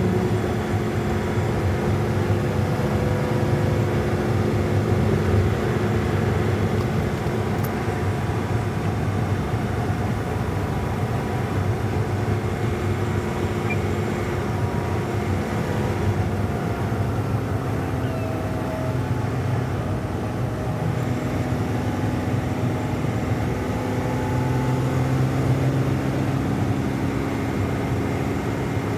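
Semi-truck engine and road noise heard from inside the cab while driving: a steady drone whose engine pitch drifts slightly, rising a little in the second half.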